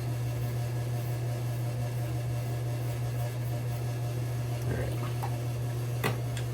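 A steady low hum over a constant background hiss, with a brief click about six seconds in.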